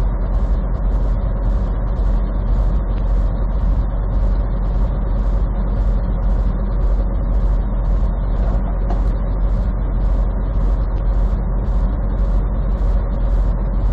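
Steady road and engine noise inside a moving vehicle at highway speed: a constant low rumble with even tyre noise. A faint high hiss pulses about twice a second throughout.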